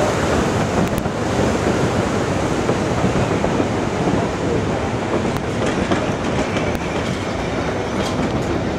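Narrow-gauge passenger cars rolling steadily along the track, a continuous rumble of wheels on rail with occasional clicks, heard from an open car.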